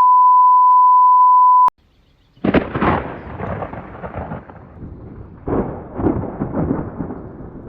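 A steady, pure beep tone that cuts off suddenly after about a second and a half. After a short gap comes rolling thunder with several rumbling crashes, a storm sound effect.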